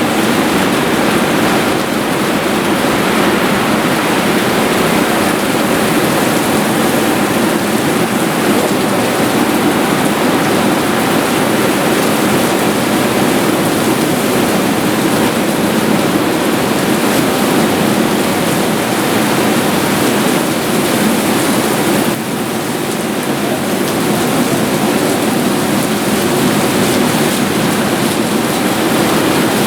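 Heavy downpour of rain during a thunderstorm: a loud, steady rush of rain on surfaces that eases slightly about three-quarters of the way through.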